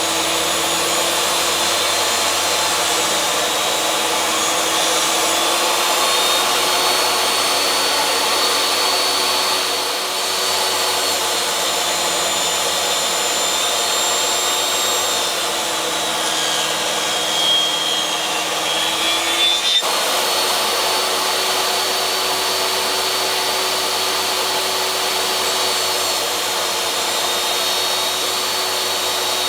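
Table saw motor running steadily, its pitch sagging and recovering several times as it takes the load of cutting through wood. A sharp knock about twenty seconds in.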